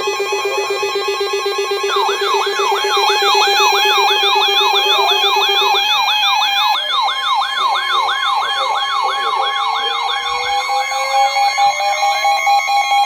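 Several electronic alert tones sounding together. Steady tones are joined about two seconds in by a fast warbling siren, about two and a half cycles a second, and a slowly rising siren tone comes in during the second half. One of the steady tones cuts off about halfway through.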